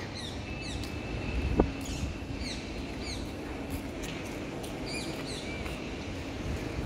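Small birds chirping: short, quick, falling calls repeated over and over, over a steady low background rumble, with a single knock about a second and a half in.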